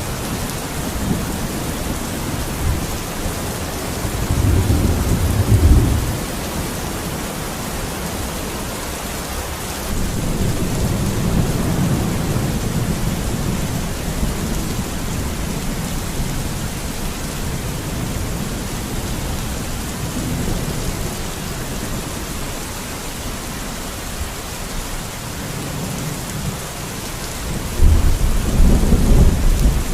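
Steady rain, an even hiss throughout, with a low rumble that swells up and fades three times: about four seconds in, around ten seconds in, and near the end.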